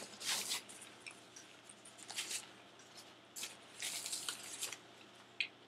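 A person chewing a bite of a crispy breaded chicken sandwich, with irregular crunching in short bursts about a second apart.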